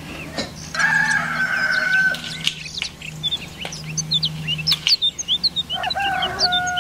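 Birds calling over a low steady hum: two long held calls of about a second and a half each, with a quick run of short high chirps between them. A few light clicks of small screws being picked from a plastic parts box.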